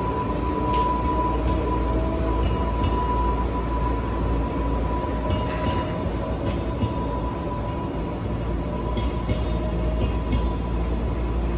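A long freight train of container flat wagons rolling past. Its wheels make a steady rumble, with irregular clacks over the rail joints and a thin steady whine above.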